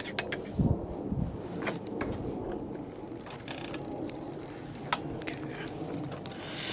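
Bicycle drivetrain being worked by hand during a rear derailleur adjustment: chain and derailleur running with a steady rattle and a few sharp clicks and taps.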